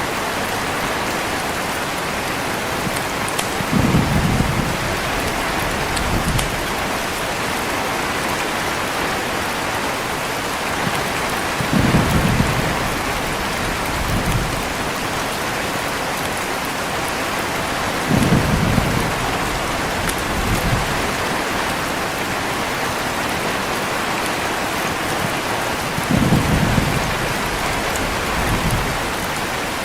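Heavy rain falling steadily, with short low rumbles of thunder in pairs about two seconds apart, coming back every seven to eight seconds.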